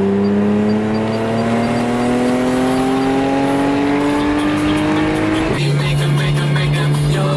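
Car engine accelerating, its pitch rising steadily; about five and a half seconds in the revs drop at a gear change and the engine runs on steadily, as music starts.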